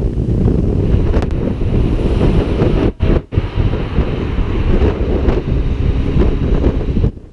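Wind buffeting the microphone of a moving motorcycle at road speed: a loud, steady low rumble that cuts out briefly twice about three seconds in and drops away just before the end.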